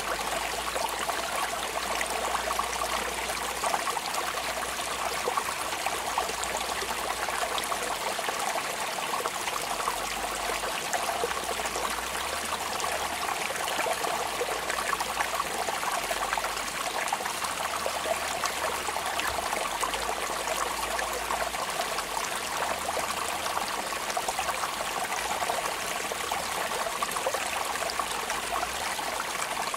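Steady rainfall: an even hiss of falling rain dotted with many fine drop ticks, unchanging throughout.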